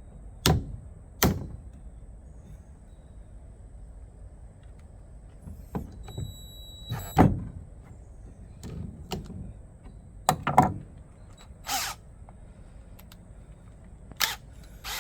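Hand tools clacking and knocking against a cordless drill while its stuck chuck is worked loose: a string of separate sharp metal knocks and clunks with pauses between them, and a short high beep about six seconds in.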